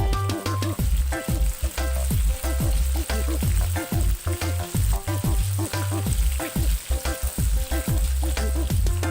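Oil sizzling as lumpia deep-fry, with background music and a steady beat running over it.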